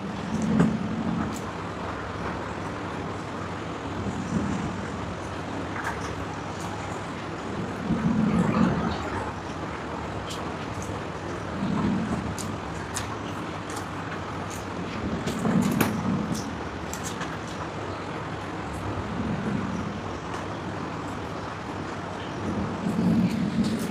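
Someone eating: faint chewing and mouth clicks over a steady background hum, with a low swelling sound about every four seconds.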